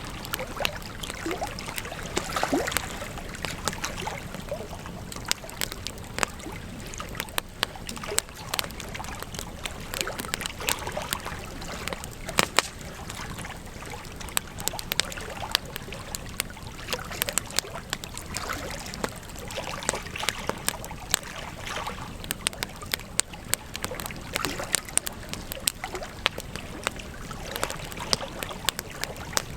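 Wood campfire crackling: irregular sharp snaps and pops over a steady soft hiss of burning, with one of the loudest pops about twelve seconds in.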